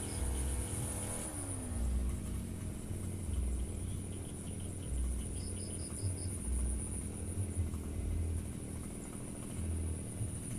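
Firman FGB 528 brush cutter's two-stroke engine drops in pitch about a second in as the throttle is released, then runs low and rough. A steady high insect buzz and short chirping runs sound above it.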